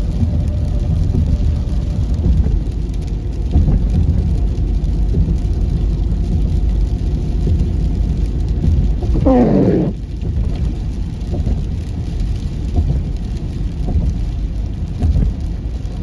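Steady low rumble of a car driving on a snowy, slushy road, heard from inside the cabin: tyre and engine noise. About nine seconds in, a short sound slides quickly down in pitch from high to low.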